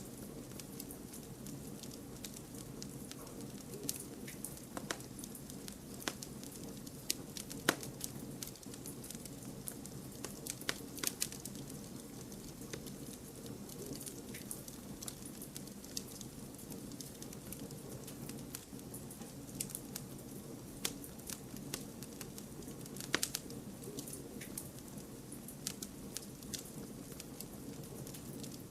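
Campfire burning: irregular sharp crackles and pops of burning wood over a steady low rush of flame. The loudest pop comes about 8 seconds in, and a quick cluster of pops comes about 23 seconds in.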